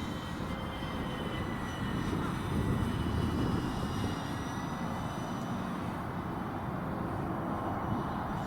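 C-130 aircraft flying, its engines giving a thin high whine of several tones that drift slightly in pitch, over heavy gusting wind rumble on the microphone.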